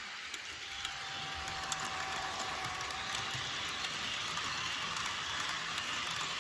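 Model train running along the track: a steady rattle with scattered sharp clicks, getting gradually louder. A faint thin whine is heard in the first half.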